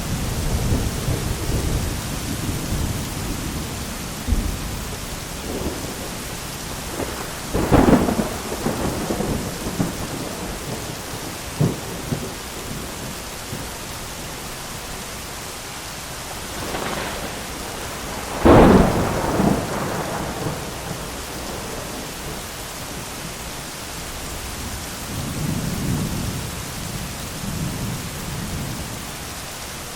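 Steady rain falling through a thunderstorm, with rolling thunder. Two sharp, close thunderclaps, each trailing off into rumbling, come about a quarter of the way in and just past the middle; the second is the loudest.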